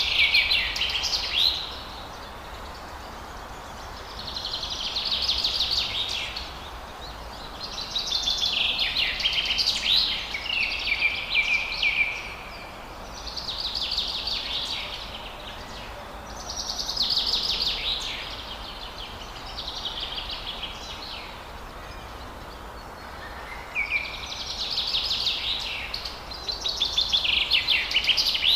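A forest songbird singing in repeated phrases, each one to two and a half seconds of fast, high, chattering notes, coming about every three seconds over a faint steady low hum.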